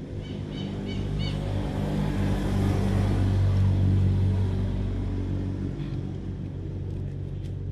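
A small engine running steadily, getting louder toward the middle and then easing off.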